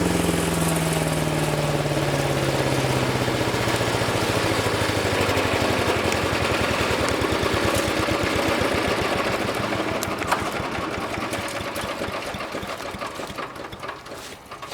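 Gasoline engine of a wood chipper shut down and spinning down: its pitch falls, then the machine coasts with a rhythm of beats that slows and fades almost to a stop near the end. A single sharp knock sounds about ten seconds in.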